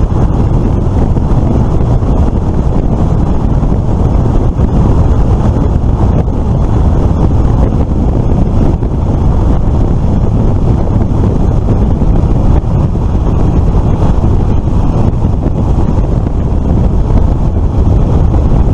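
Steady, heavy wind buffeting on the microphone of a moving motorbike, with low engine and road rumble underneath.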